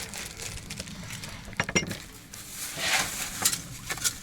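Dishes and utensils being moved about and set down, with a few sharp knocks and clinks as a cutting board is cleared.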